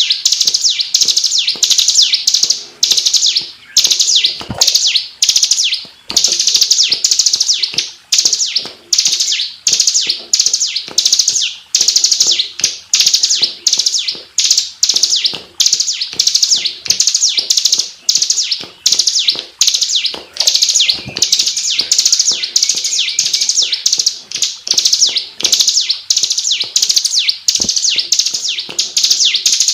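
Ciblek (bar-winged prinia) singing a high-pitched, rapid chattering song, phrase after phrase with barely a pause.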